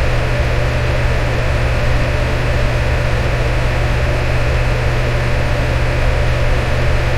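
Electric fan running steadily: an even whooshing hiss with a strong low hum underneath and a faint steady tone in the middle.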